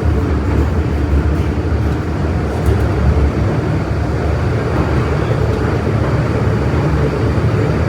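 Metro-Cammell M-Train electric multiple unit running along the track, heard from inside the carriage as a steady, deep rumble.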